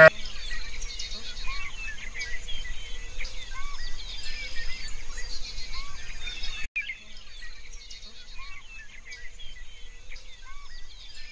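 A chorus of small birds chirping and trilling, with a short rising-and-falling call that repeats every couple of seconds.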